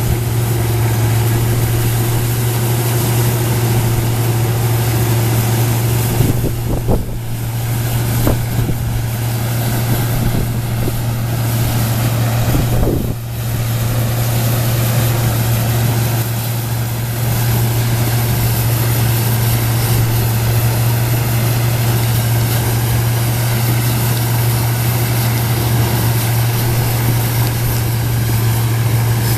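1977 Gleaner F2 combine with a 430 corn head running steadily while harvesting corn: a loud constant drone of engine and machinery, with two brief dips in the sound about 7 and 13 seconds in.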